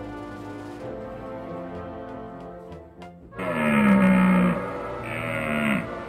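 Background music, then about three and a half seconds in a loud, low animal call from a large hoofed animal that falls in pitch and lasts about a second, followed by a shorter call of the same kind.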